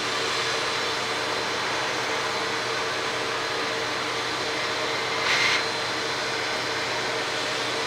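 A machine running steadily: an even rush of air with a constant hum and a faint high whine, swelling briefly louder about five seconds in.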